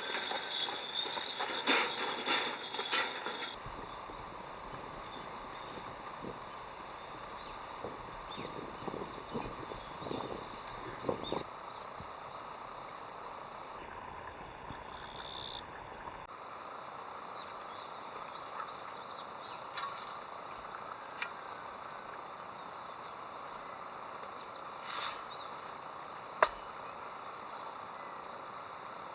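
Steady high-pitched chorus of summer insects chirping, with a few scattered knocks in the first half and one sharp click near the end.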